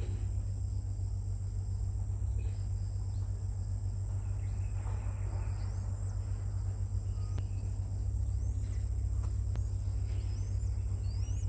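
Short, high, rising bird chirps, sparse at first and then several in quick succession near the end, over a steady low rumble and a constant thin high-pitched whine.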